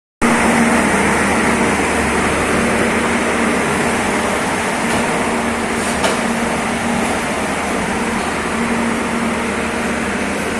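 Train locomotive engine running steadily at close range: a loud, even mechanical noise with a low hum that swells and fades every couple of seconds, and one short click about six seconds in.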